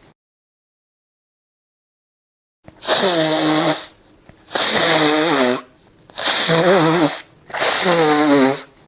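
A voice-like sound repeated four times after a silent pause: breathy, pitched bursts about a second long each, with short gaps between.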